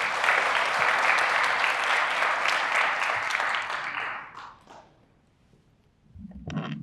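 Audience applauding, many hands clapping together; the applause fades away about four and a half seconds in.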